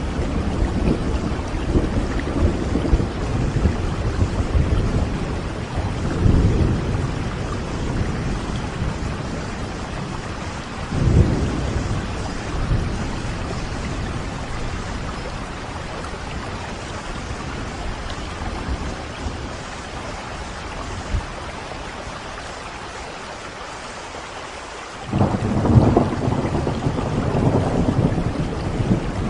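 Steady rain with rolling thunder. Low rumbles swell and fade in the first half, the storm eases for a while, then a loud rumble of thunder breaks in about 25 seconds in.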